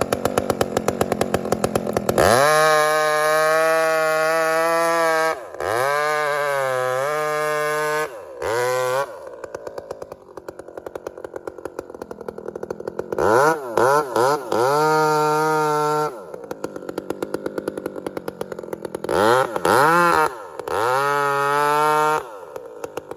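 Two-stroke chainsaw alternating between idle and full-throttle bursts, revving up and dropping back to idle several times; the longest high-revving stretch is held steady for about three seconds near the start.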